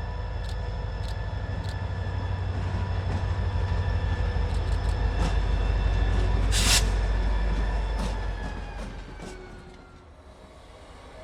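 Freight train with a diesel locomotive rolling slowly past on industrial track. There is a steady deep engine rumble, steady high tones and scattered wheel clicks. It grows louder to a brief loud burst of noise about six and a half seconds in, then fades away near the end.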